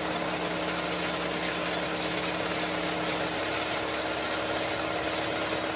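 Nissan twin-cam 16-valve four-cylinder engine idling steadily.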